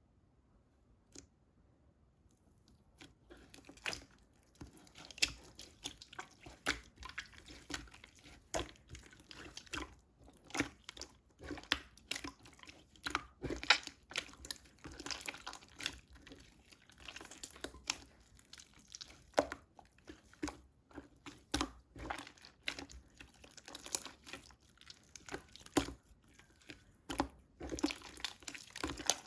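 Hands squeezing and pressing a burger-patty slime: a steady run of irregular sticky pops, clicks and crackles, starting about three seconds in.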